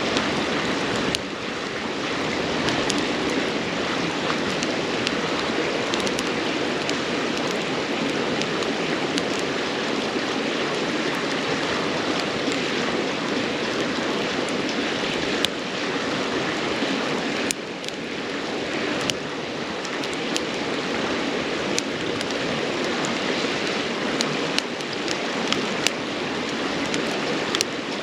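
A river flowing steadily, with scattered sharp crackles and pops from firewood burning in a campfire.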